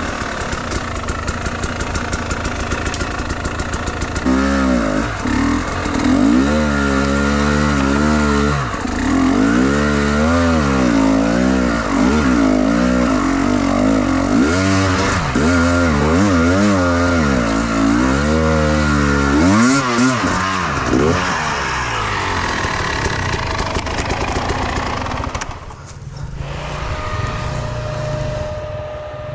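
Enduro motorcycle engine revving up and down over and over in quick rises and falls, then dropping to a quieter, steadier note near the end.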